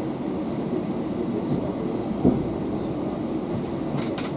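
Wheels of a passenger train carriage running on the rails at low speed as the train pulls into a station, heard from inside the carriage: a steady rumble with one knock about two seconds in and a few light clicks near the end.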